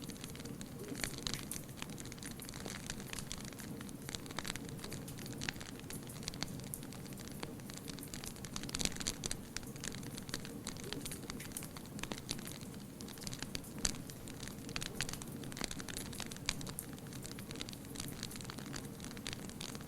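Wood fire crackling: many irregular sharp pops and snaps over a steady low rumble of burning.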